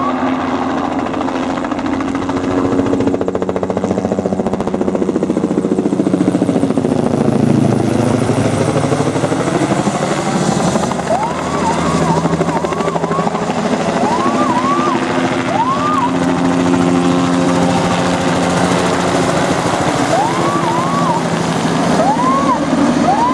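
Rally car engine revving hard through a series of quick upshifts, each rev climbing sharply and cutting off at the shift, in two runs in the second half. Underneath is a steady low drone with one long dip and rise in pitch.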